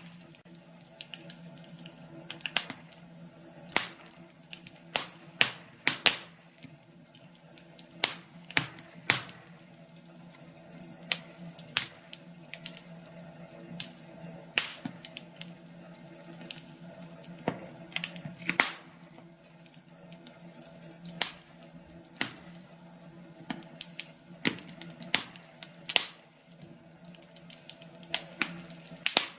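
Wood fire crackling: irregular sharp pops and snaps, a few loud ones among many faint ones, over a faint steady hum.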